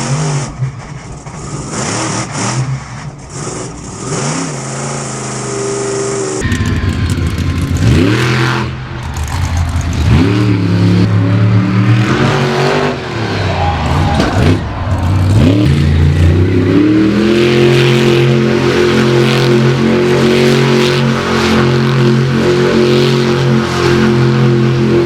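Monster truck engine revving hard, its pitch rising and falling over and over with the throttle, then held at high revs in a steady run for the last several seconds.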